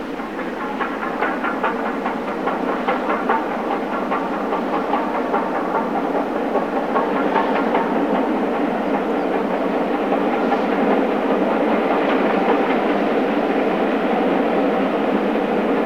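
Steam-hauled passenger train, LNER K1 locomotive 62005 and its coaches, running past: a rapid clickety-clack of wheels over rail joints in the first half, then a steady rumble, growing louder as it comes closer.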